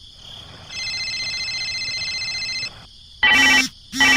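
A steady electronic buzzing tone for about two seconds, then two short, loud honk-like beeps.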